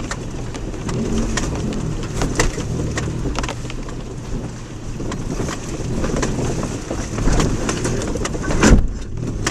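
Subaru Outback heard from inside the cabin, driving slowly over a rough, rocky dirt road: a steady low rumble with many knocks and rattles from the body and suspension. Near the end comes one heavy thump underneath, which the occupants take for the rear tow hitch striking the ground.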